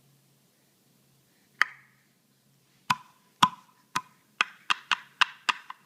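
A single sharp knock, then after a pause a run of sharp knocks that starts at about two a second and speeds up to about four a second.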